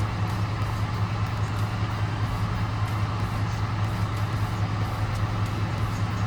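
Diesel engine of a 2022 International semi-truck running with a steady low drone.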